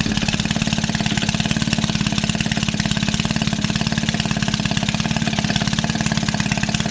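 1946 Maytag 72 twin-cylinder two-stroke engine running steadily under load with an even, rapid exhaust beat, belt-driving a washing machine. It is running slower than its rated speed, which the owner takes to be why it is getting hot.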